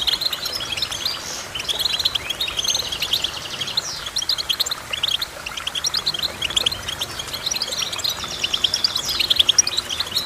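A small finch singing: a continuous, fast run of short, high chirps and twitters.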